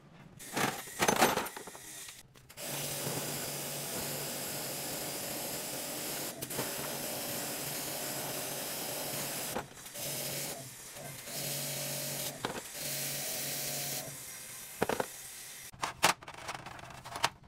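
A handheld electric power tool running in long steady stretches with a low motor hum, stopping briefly a few times, with sharp knocks of tools being handled before it starts and after it stops.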